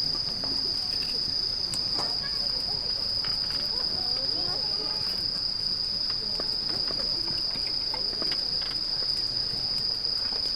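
Insects trilling in an unbroken, high-pitched chorus, with faint scattered clicks underneath.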